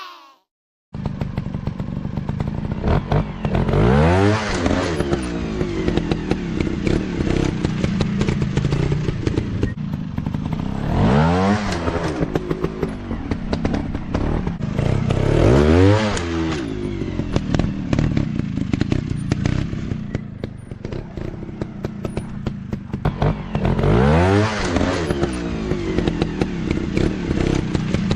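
Dirt bike engines running, revving up and back down about four times over a steady engine drone, with clattering. The sound starts about a second in.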